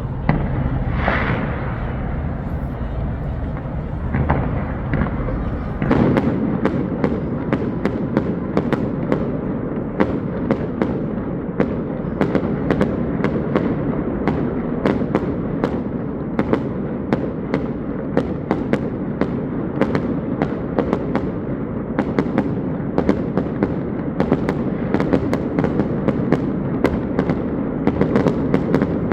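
Fireworks going off: a couple of separate bursts in the first few seconds, then from about six seconds in a dense, continuous crackle of sharp pops, many a second.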